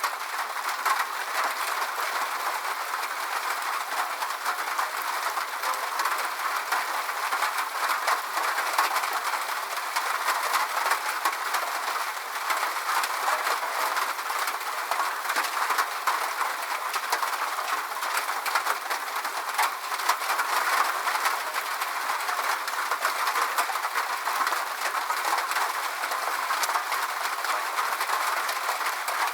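Steady rain falling: an even hiss of drops with many small sharp ticks of individual drops hitting.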